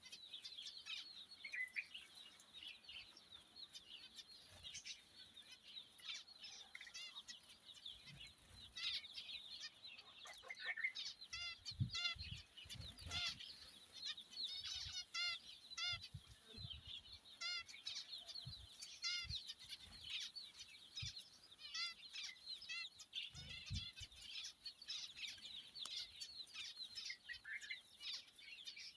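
Many small cage birds chirping and chattering over one another, with runs of quick repeated calls in the middle, and a few soft low knocks.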